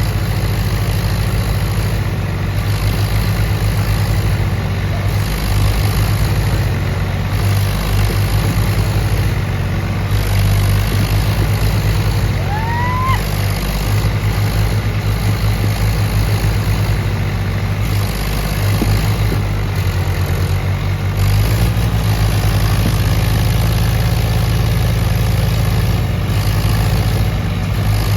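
Diesel tractor engine running steadily with a deep, pulsing low rumble. A short rising whistle is heard about halfway through.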